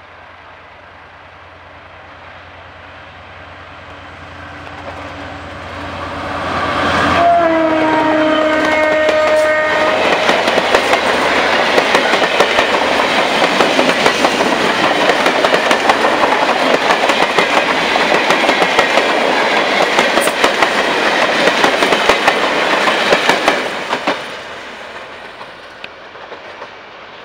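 GM GT22 diesel locomotive approaching and growing steadily louder, then sounding one horn blast of about two and a half seconds some seven seconds in. Its passenger coaches then roll past close by, their wheels clicking fast over the rail joints, and the sound falls away about three seconds before the end as the train draws off.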